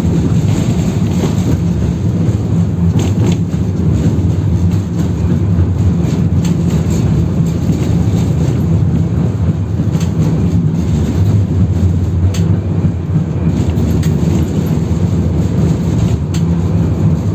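A 71-608KM tram running on route 18's worn rails, heard from inside the car: a steady low drone of motors and wheels with scattered clicks and knocks from the wheels on the track.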